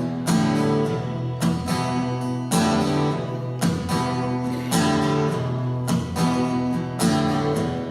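Acoustic guitar strummed in a steady rhythm, chords struck about once a second and ringing between strokes: the instrumental introduction to a song.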